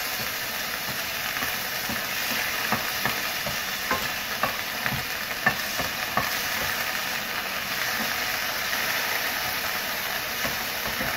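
Minced chicken sizzling in hot vegetable oil in a frying pan while being stirred with a wooden spatula, which knocks and scrapes against the pan a number of times in the middle.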